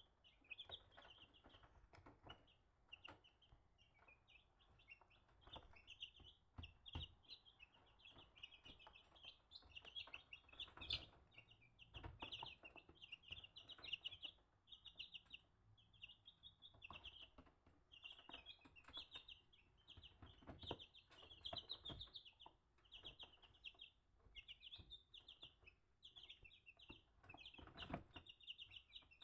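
Chickens peeping: a faint, nearly constant chorus of short high calls, with scattered light taps and knocks.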